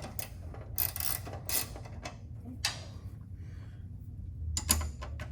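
Hand tools and metal bolts clinking and scraping while sway bar link hardware is worked on: a few separate short strokes, with a quick cluster of clicks near the end, over a steady low hum.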